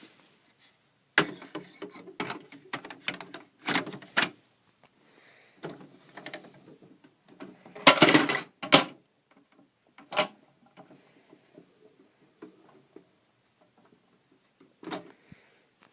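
Irregular clicks, knocks and clatters of hard objects being handled, in bursts with quiet gaps between them; the loudest clattering comes about eight seconds in.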